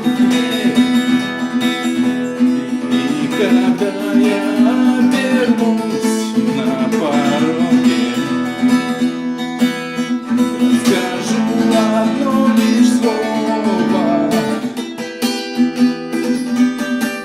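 Acoustic guitar strumming chords. The strokes turn sharper and more separated near the end.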